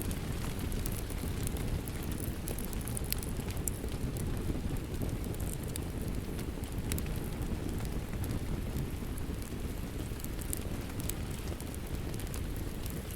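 Steady rain mixed with a crackling wood fire: an even low rush with sharp pops and snaps scattered through it.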